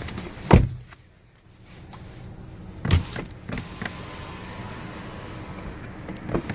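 Two heavy thumps from a 2016 Honda Civic sedan's body and fittings being handled, the first about half a second in and the louder of the two, the second about two and a half seconds later, with lighter clicks between them and near the end.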